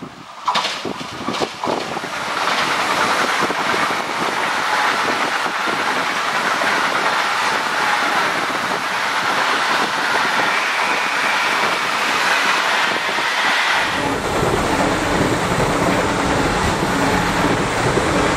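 An ICE high-speed electric train passes at speed. A few sharp clacks come early as the wheels run over the points, then a steady rush of wheel and air noise. About fourteen seconds in, the sound turns to a deeper rumble.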